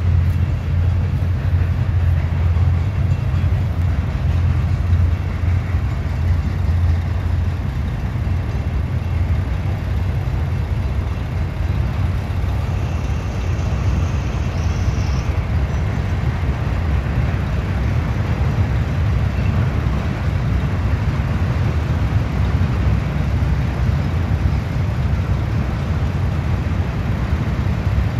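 Portland & Western freight train of loaded log cars rolling through a road crossing, a steady low rumble of wheels on rail.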